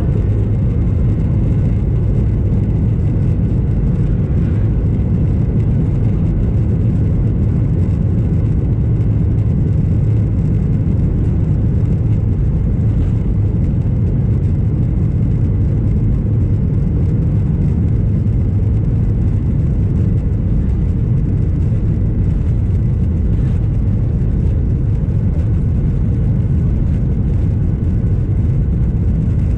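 Steady low rumble of a Boeing 737-800's CFM56-7B jet engines, heard from inside the passenger cabin, with no change in pitch or level.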